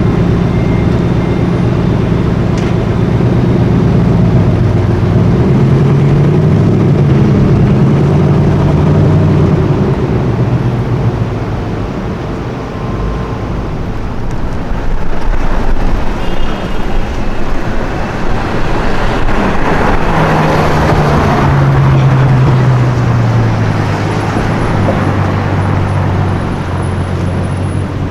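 Car engines in city traffic, the engine pitch climbing and dropping a few times as a car accelerates. About twenty seconds in, a car passes close by: a swell of engine and tyre noise with the pitch falling away.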